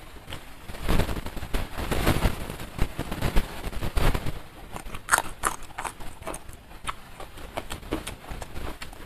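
Close-miked chewing of a mouthful of food, with wet smacking and clicking mouth sounds: dense for the first few seconds, then sparser, sharper clicks from about five seconds in.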